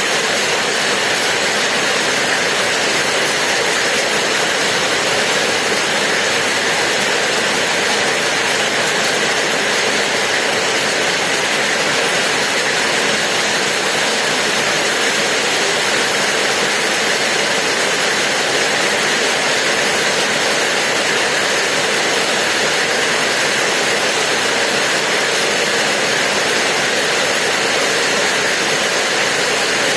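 Steady rain falling: a continuous, even hiss of raindrops that holds at the same level throughout.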